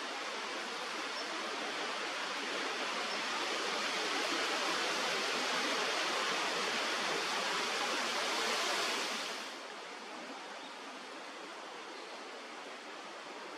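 Steady outdoor rushing noise that swells over several seconds, then drops off sharply about nine and a half seconds in and carries on more quietly.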